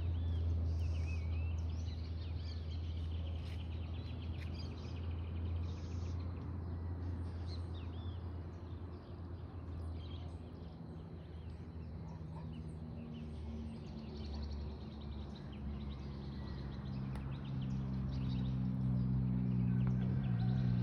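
Birds chirping in short rising and falling calls over a steady low rumble. A low hum with several tones grows louder in the last third.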